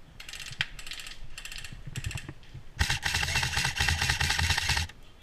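Airsoft electric gun (an LCT G04 AEG) firing on full auto: four short bursts of rapid clicking, then one longer burst of about two seconds that stops abruptly near the end.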